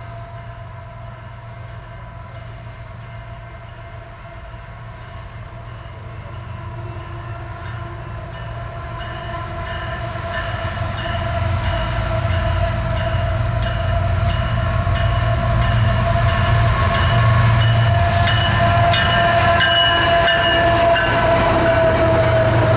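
GE ET44C4 Tier 4 diesel locomotives leading a stack train, approaching and passing at speed. The engine rumble and a steady held tone grow louder over about twenty seconds, and the tone dips slightly in pitch as the lead units go by.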